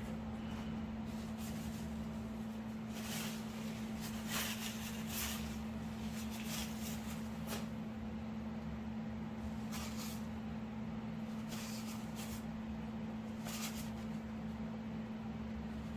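Steady low electrical hum, with intermittent brief scrapes and rustles from parts and tools being handled, loudest about four seconds in.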